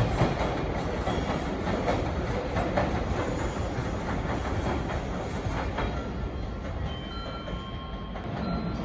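Freight train passing, its wheels clacking over the rail joints. The clacks are densest in the first half and the noise eases a little toward the end.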